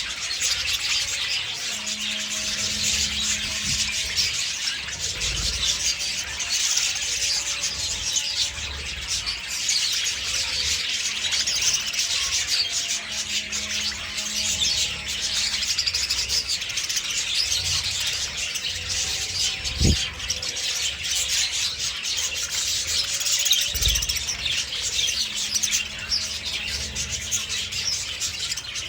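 Budgerigars chirping and chattering together in a dense, continuous flock chorus. A single sharp knock sounds about two-thirds of the way in.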